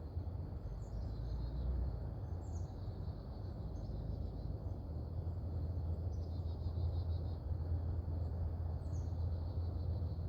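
Small birds chirping at intervals, with a rapid trill about six seconds in, over a steady low outdoor rumble.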